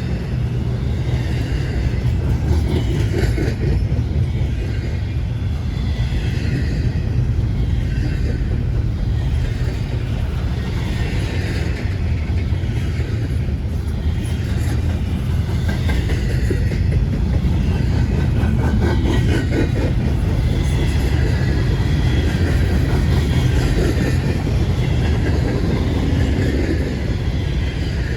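Freight train rolling past with a steady, loud rumble of wheels on rail that runs on without a break.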